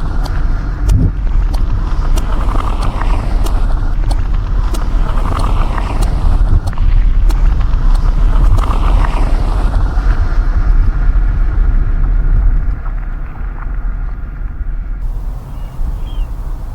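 Steady road and engine rumble heard inside a moving car's cabin, with tyre noise swelling and fading and faint ticks. It eases off somewhat after about twelve seconds.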